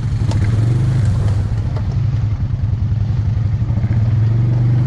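ATV engine running steadily at low revs, with a constant low throb and no real revving.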